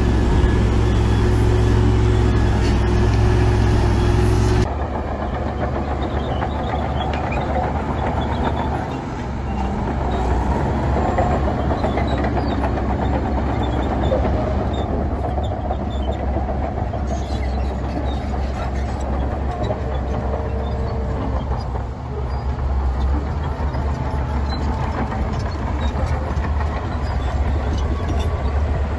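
Heavy diesel earthmoving machinery running, with scattered clanks and rattles over a steady engine drone. About five seconds in, the sound changes abruptly: a deep hum and a steady tone drop away and the level falls a little.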